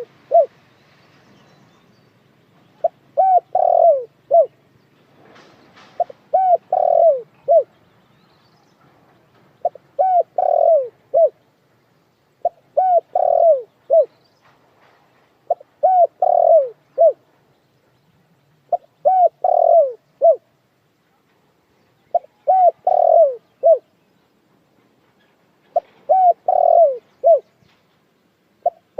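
A puter dekukur dove cooing, one short phrase of a few notes that glide downward, repeated about every three and a half seconds, about nine times.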